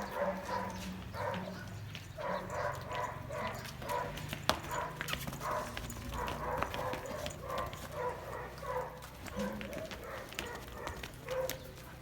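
A dog barking over and over in quick succession, with a low steady hum beneath.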